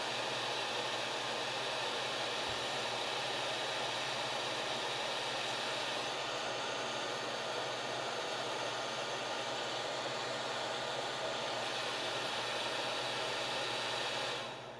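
Hot-air soldering station's blower blowing steadily with a hiss, then cutting off and fading quickly near the end.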